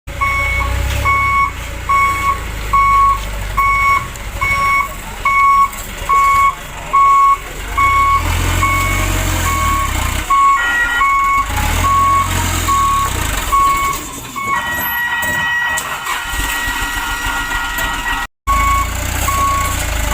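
Dump truck's reversing alarm beeping evenly about once a second over a diesel engine running. For a few seconds in the later part, the beeps give way to a steady whine of several tones. After a short break the beeping starts again.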